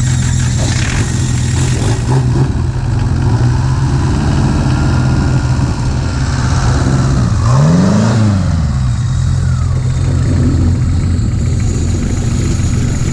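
Car engine idling steadily, with one quick blip of the throttle about eight seconds in, the revs rising and falling back.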